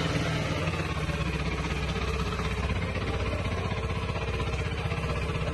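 Indian motorcycle's V-twin engine idling steadily, with an even rapid exhaust pulse.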